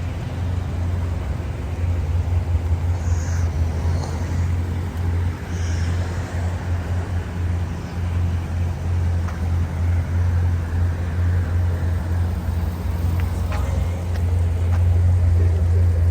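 A car's engine and exhaust running steadily in a deep, even drone, with a choppy pulse to it and road noise over it. No revving is heard.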